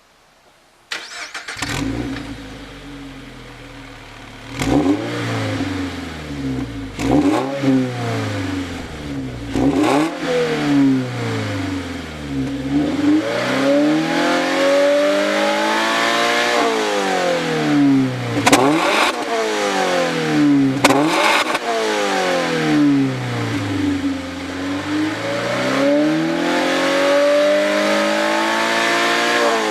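Toyota GR86 / Subaru BRZ flat-four engine breathing through a Kakimoto Racing Class KR Dual aftermarket exhaust with centre pipe. It starts about a second in, settles at idle, then is revved again and again: three quick blips first, then longer revs that rise and fall, the last one climbing slowly near the end.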